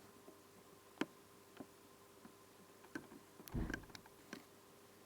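A few light clicks and knocks, with a deeper thump about three and a half seconds in: the reassembled LCD television being handled and turned around on the bench.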